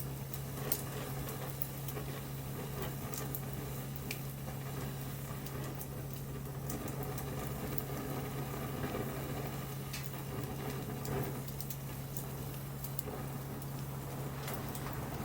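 Wood fire crackling, with scattered sharp pops and snaps over a soft hiss and a steady low hum.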